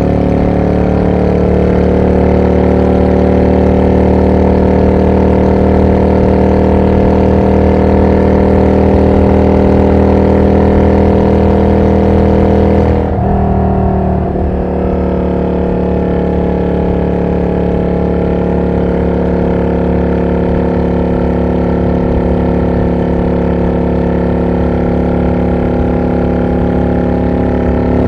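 Yamaha DragStar 400 Classic's V-twin engine running steadily at highway speed through a loud, non-road-legal aftermarket muffler. About halfway through, the exhaust note briefly wavers and changes pitch, then settles into a steady, slightly quieter note.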